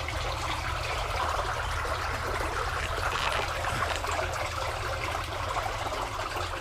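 Irrigation water running steadily, a continuous rushing trickle. It is the flow restored to the rancher's supply after his complaint of low water.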